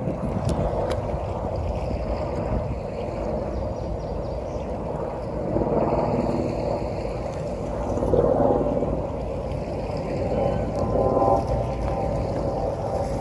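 Tour boat's engine running steadily under wind and rushing water on the river, with the level swelling a few times.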